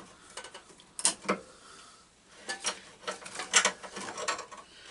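Scattered sharp clicks and small rattles of hand tools and metal parts being handled while wiring is cut free on a lawn tractor.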